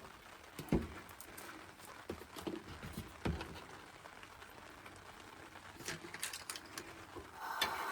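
Scattered light clicks and knocks of utensils and cookware being handled at a camp stove. Near the end a steady sizzle starts, as butter goes into the hot pan.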